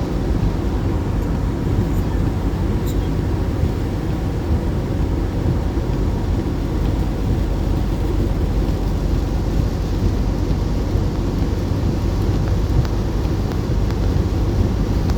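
A steady low rumble that holds at an even level throughout, with a faint thin hum above it.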